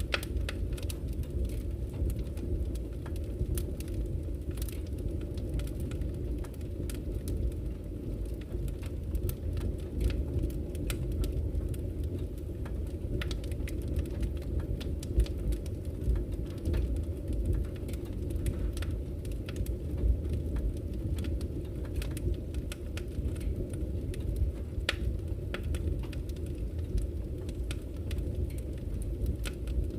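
Campfire crackling, with sharp irregular pops and snaps, over the steady low rush of a flowing river.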